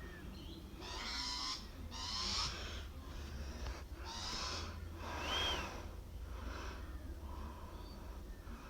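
A bird calling over and over, about one rasping call a second. The first few calls are the loudest, and the calls grow fainter toward the end.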